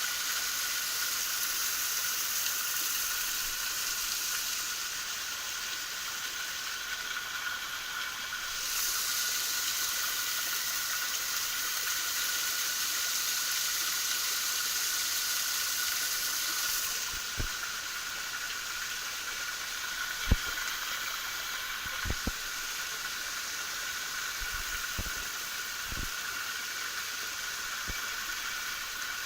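Steady rushing hiss of a small mountain waterfall, its spray louder for several seconds in the middle. A few sharp knocks in the second half, one clearly louder than the rest.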